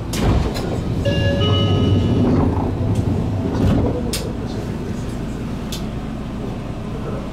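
Seibu 2000 series electric commuter train standing at a station platform: a thump, then a low hum with a short run of chime-like tones for a couple of seconds, and a few sharp clicks.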